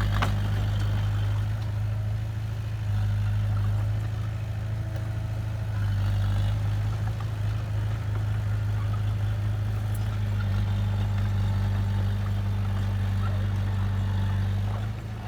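Diesel engine of heavy earthmoving machinery running steadily at constant speed, a deep even hum that holds its pitch throughout.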